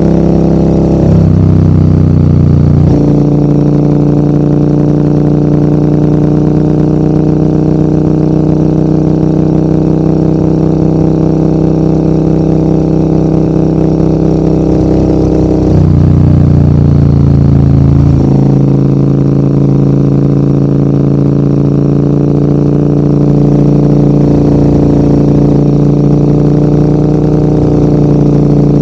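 Large adventure motorcycle's engine pulling steadily uphill, its note dropping and picking up again twice, about a second in and again near two-thirds of the way through, as revs fall and recover.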